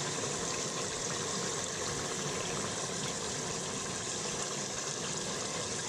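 Chicken, potato and pea curry cooking in a pot with a little water, giving a steady sizzling and bubbling.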